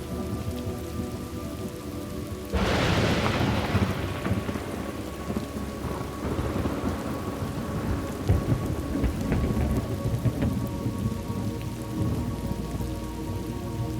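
Thunderstorm ambience: steady rain, then a sudden crack of thunder about two and a half seconds in that fades into a long low rumble.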